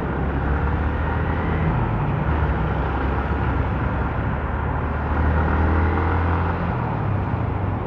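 Motorcycle engine and road noise while riding, a steady low drone with a faint engine note that drifts up and down a little.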